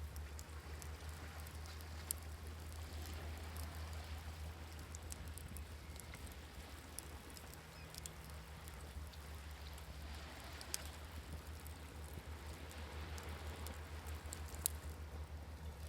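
Campfire crackling with scattered sharp pops, over the soft wash of waves that swells and fades. A steady low hum runs underneath.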